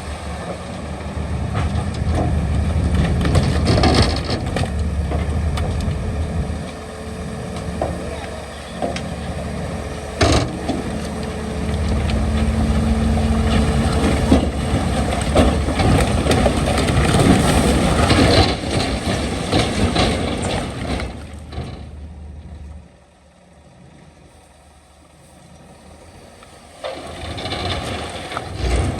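Heavy diesel earthmoving machinery working, a steady engine rumble with scattered knocks and clanks, one sharp knock about ten seconds in. Near the end it drops to a quieter running for a few seconds before picking up again.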